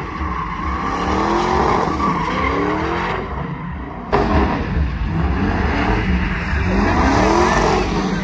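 Truck doing a burnout, its engine revving up again and again over screeching, spinning tires. There is a sharp crack about four seconds in.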